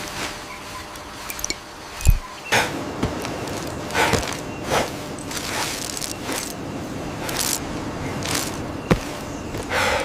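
Irregular rustling and scraping noises, several short bursts spread unevenly, with two sharp knocks, one about two seconds in and one near the end, over a steady background hiss.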